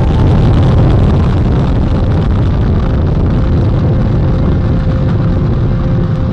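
NASA Space Launch System rocket at liftoff, its four RS-25 core-stage engines and two solid rocket boosters firing together: a loud, steady, deep rumble.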